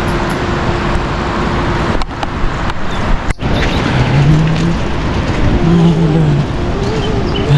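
Steady, loud hiss of heavy rain. A short background music melody comes in about four seconds in.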